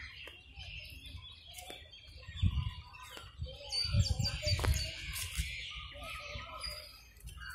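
Several birds chirping and calling over one another in a continuous stream of short, high calls. A few low rumbling bursts on the microphone come about two and a half and four seconds in, and these are the loudest sounds.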